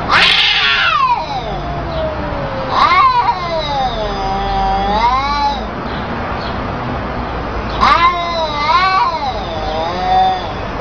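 Domestic cat caterwauling: three long, drawn-out wavering yowls. The first starts loud and slides down in pitch; the other two rise and fall about 3 and 8 seconds in.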